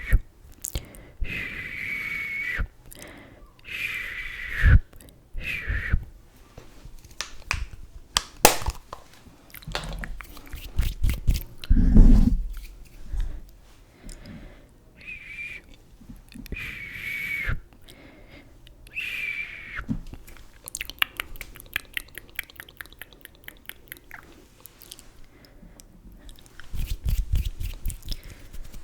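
Close-up ASMR sounds of makeup and cosmetic packaging being handled: scattered clicks and taps, a quick run of ticking taps, and several short high squeaks.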